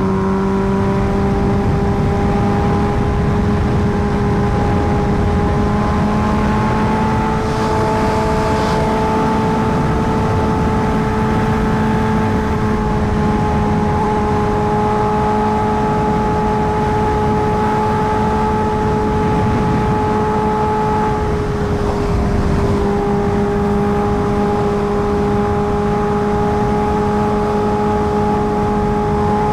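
Kawasaki Ninja H2R's supercharged inline-four running at a steady, even pitch while under way, with wind rush. The note dips briefly about two-thirds of the way through, then holds steady again.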